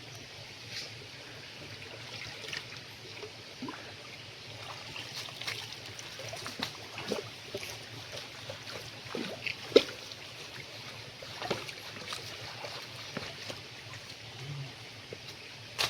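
Stream water trickling, with scattered small splashes and knocks; one sharper knock about ten seconds in.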